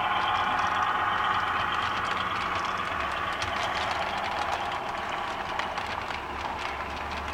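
HO scale model train running on track: a steady mechanical hum with a quick, irregular clicking of wheels over the rails. It grows slightly quieter in the second half.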